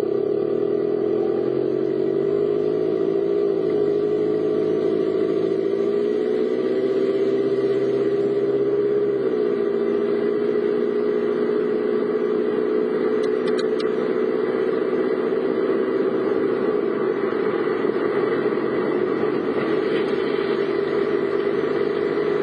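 Car engine running while driving, its pitch rising and shifting over the first several seconds and then holding steady, over a constant hiss of road noise.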